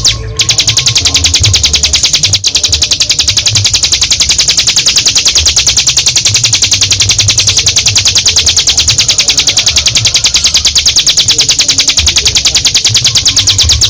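Ciblek gunung (a prinia) singing a long, unbroken, high-pitched trill of about ten notes a second, the continuous 'ngebren' song, with a brief break about two seconds in.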